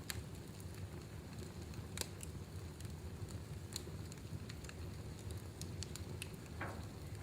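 Wood fire burning in a fireplace: a steady low rumble of flames with irregular sharp crackles and pops, and a brief hiss of escaping gas or steam near the end.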